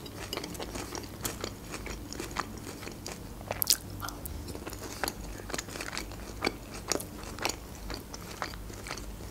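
Close-miked chewing of Caesar salad, with crisp, irregular crunches of lettuce; the loudest crunches come a little under four seconds in.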